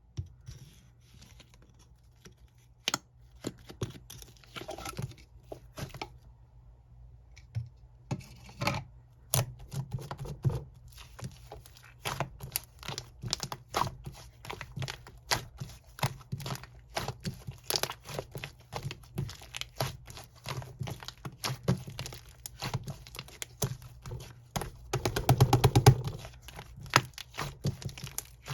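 Slime being played with by hand: a steady run of sticky clicks and crackling pops, briefly quieter around a quarter of the way in and louder near the end.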